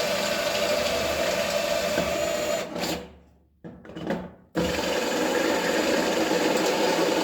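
Electric drill running steadily, boring out a hole in sheet-metal toaster oven shell. It stops about two and a half seconds in, gives a short blip, then runs again from about four and a half seconds.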